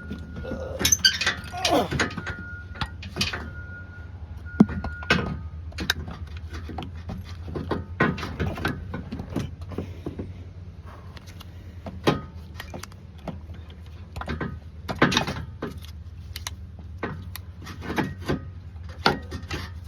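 Irregular metallic clinks, rattles and knocks from hand tools and metal parts as a replacement AC compressor is worked into place, over a steady low hum.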